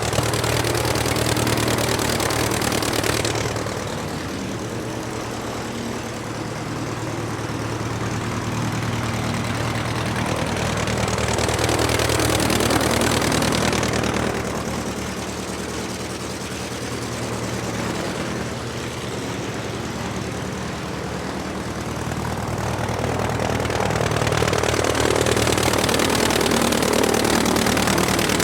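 A motor runs steadily with a low hum. A rushing noise swells and fades three times: near the start, about halfway through, and near the end.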